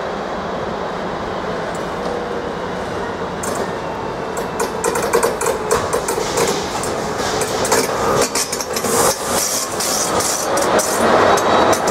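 A ČD class 242 electric locomotive hauling passenger coaches rolls slowly past, over a steady hum. From a few seconds in, its wheels click and knock over the rail joints and points, getting louder and denser as it draws level.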